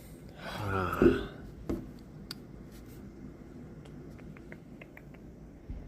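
A short voiced sound from a person in the first second, cut by a loud thump, then a knock, a sharp click and a few faint short ticks.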